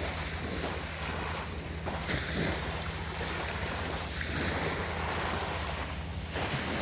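Waves washing onto the shore, the surf swelling twice, with wind rumbling on the microphone.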